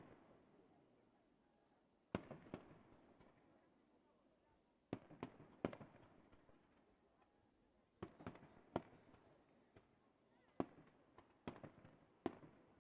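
Aerial firework shells bursting: sharp bangs in small clusters of two or three every few seconds, each trailing off in an echoing rumble.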